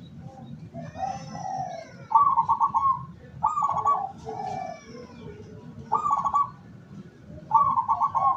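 Zebra dove (perkutut) cooing. About four rapid trilled coo phrases, each under a second long, are separated by softer lower notes. Faint high chirps run above them.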